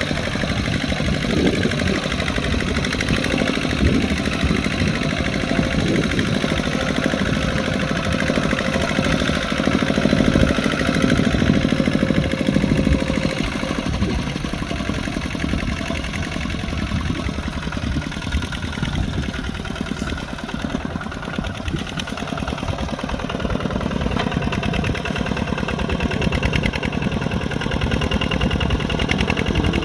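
Tractor's Kubota RT140 Plus single-cylinder diesel engine running steadily with a rapid knocking chug, easing off slightly a little past the middle.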